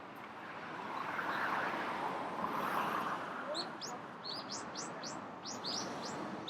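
Small birds chirping: a quick series of short, high, rising chirps in the second half. Before them, street traffic noise swells and fades.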